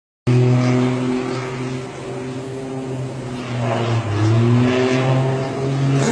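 An engine running at a steady drone, its pitch sagging and then recovering a little around the middle.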